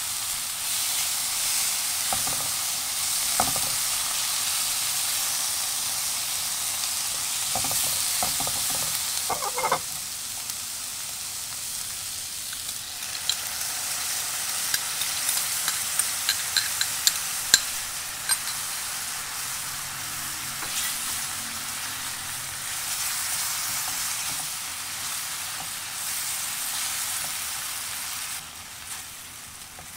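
Chicken pieces and sliced green onion sizzling in a hot frying pan, stirred with scraping strokes of a silicone spatula in the first third. About halfway through, a sauce is added, and the frying breaks into a run of sharp pops and spatters before it settles back to a steady sizzle.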